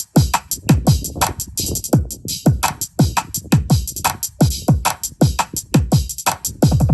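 Electronic music with a drum machine played at full volume through a portable Bluetooth speaker. Each deep kick drum hit drops in pitch, with bright high percussion over it.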